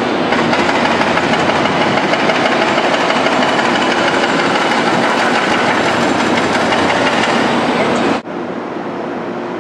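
Korail electric train standing at a station platform, its running equipment giving a steady hum and rush. About eight seconds in, the sound drops suddenly to a quieter hum.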